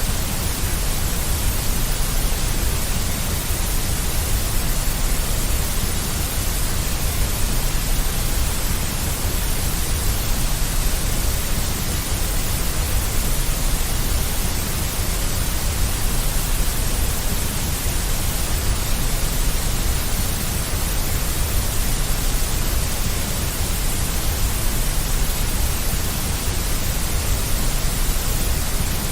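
Steady, unbroken synthetic noise with a deep low end: a continuous white-noise hiss for soothing a baby.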